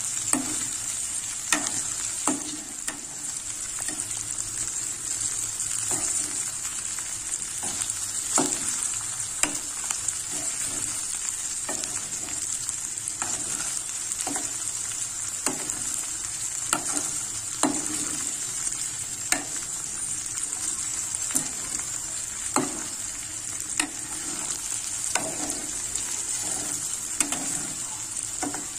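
Sliced okra sizzling in hot oil in a metal pan, with a steady hiss. A metal spoon stirs it, scraping and knocking against the pan about once a second.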